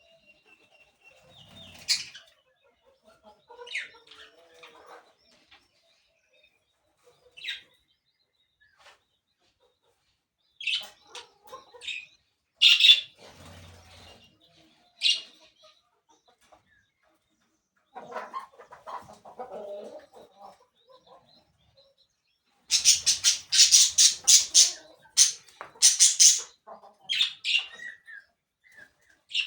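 Parakeets calling in scattered short, harsh chirps and squawks, breaking into a dense run of loud squawks for a few seconds near the end.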